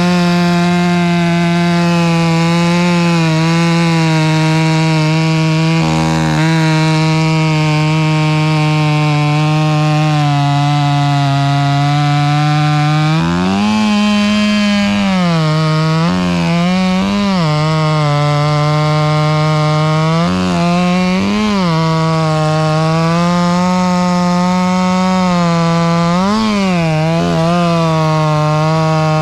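Two-stroke chainsaw running steadily at high speed, cutting wood. Its engine note rises and falls briefly several times in the second half.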